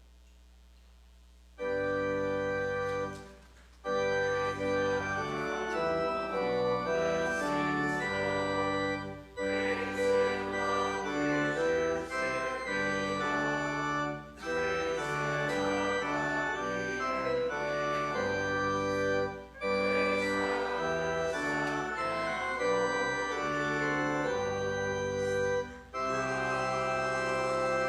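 Organ playing offertory music in sustained chords, starting about a second and a half in, its phrases separated by brief breaks every few seconds.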